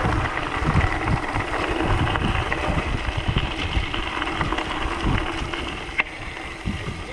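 Wind buffeting the microphone over the running noise of a mountain bike's tyres on a gravel road, with one sharp click about six seconds in.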